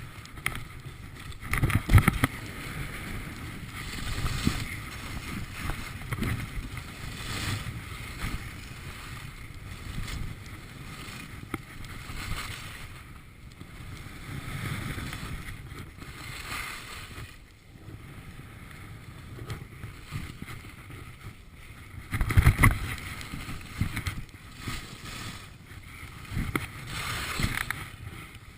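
Skis hissing and scraping over snow through a series of turns, swelling and fading unevenly, with the two loudest scrapes about two seconds in and about twenty-two seconds in. Wind rushes on the microphone underneath.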